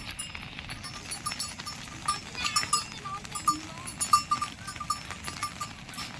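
Farm livestock, with a rapid run of light clicks and ticks throughout.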